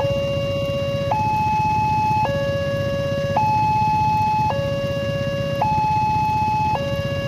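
Railway level-crossing warning alarm (genta) sounding its electronic two-tone signal, switching between a lower and a higher tone about every second, the sign that a train is approaching. A low rumble runs underneath.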